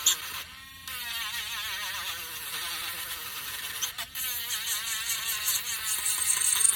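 Small handheld electric sanding tool running against wood: a high motor whine whose pitch wavers as it is pressed and moved, over a hiss of abrasion. It dips briefly twice.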